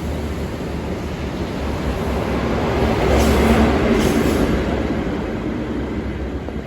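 Network Rail's New Measurement Train, a diesel High Speed Train, passing through the station: a low diesel rumble and rail noise that build to their loudest about three to four seconds in, then fade away.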